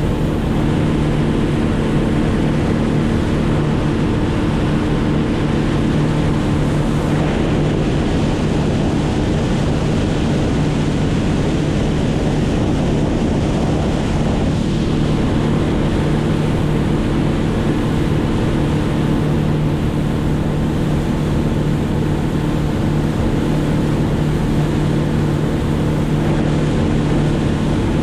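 Engine running steadily at a constant pitch over a loud rushing noise. The pitch wavers for several seconds around the middle, then settles again.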